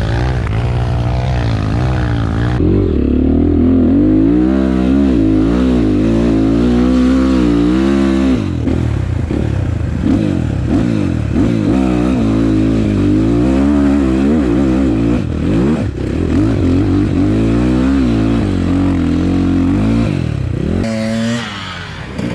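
Enduro motorcycle engine revving hard, its pitch rising and falling over and over as the throttle is worked on a hill climb. It drops away shortly before the end.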